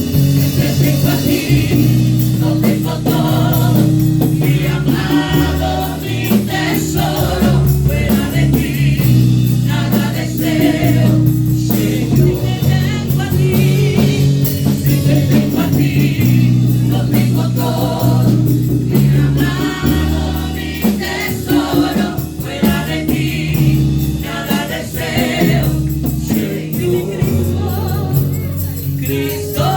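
Live gospel praise-and-worship music: a group of voices singing over a band, with held low chords underneath.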